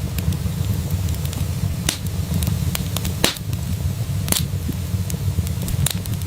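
Wood fire in a fireplace crackling: a steady low rumble from the flames with frequent sharp pops and snaps, two louder pops around the middle.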